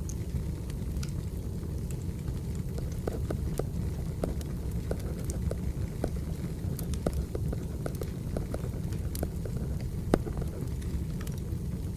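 Wood fire burning: a steady low rumble with scattered small crackles and one louder pop about ten seconds in.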